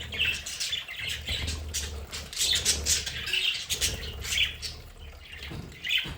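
Budgerigars chattering, a run of short, scratchy squawks and chirps from several birds at once.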